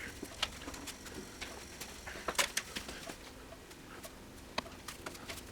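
Scattered light clicks and taps of tools and metal parts being handled while a table saw's motor assembly is taken apart.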